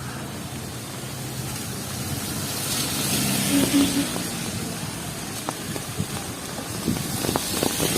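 Street traffic on a wet road: a vehicle engine runs low and steady, with tyre hiss swelling about three seconds in, and scattered sharp ticks in the second half.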